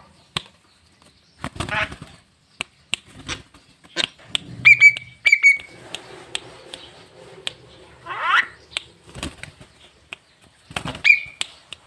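Javan myna calling: a string of sharp clicks, a few rising calls, and two short whistled notes near the middle.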